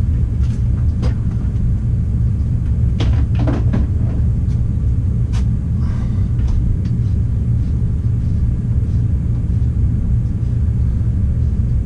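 Steady low rumble with scattered light clicks and knocks from handling metal fittings and tools.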